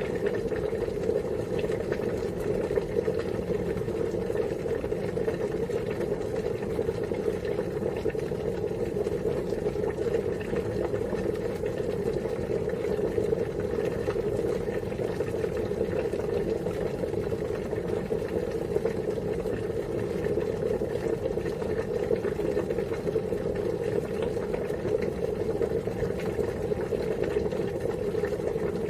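Water boiling, a steady unbroken bubbling.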